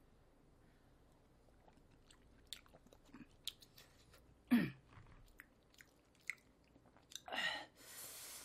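A person chewing a mouthful of stew and rice close to the microphone, with soft wet clicks of the mouth. About halfway there is a short hum that falls in pitch, and near the end a loud breathy exhale.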